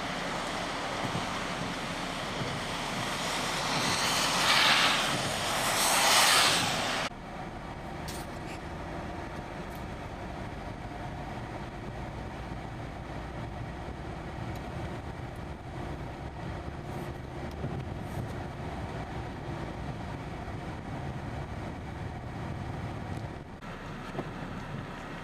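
Road traffic on slushy, snowy pavement: two vehicles swell past in the first seven seconds with a hiss of tyres. Then the sound cuts suddenly to a quieter, steady rumble of traffic.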